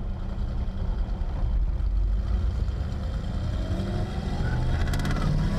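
1962 Oldsmobile Jetfire's turbocharged 215 aluminium V8 running under way, with a steady low rumble; the engine note rises from about three and a half seconds in as the car accelerates.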